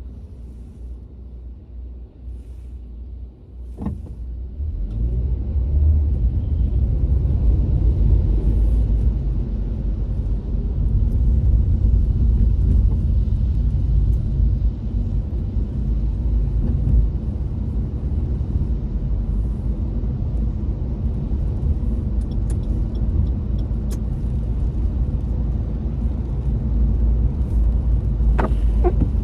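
Car driving, engine and road noise heard from inside the cabin; it is quieter for the first few seconds, then grows louder about four seconds in as the car picks up speed.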